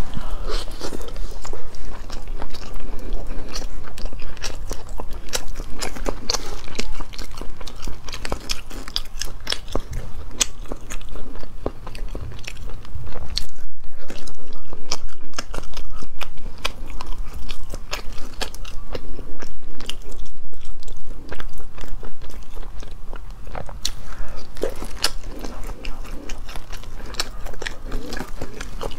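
Close-miked biting and chewing of a cooked whole octopus, its head packed with eggs: a dense, continuous run of small clicks and crunches.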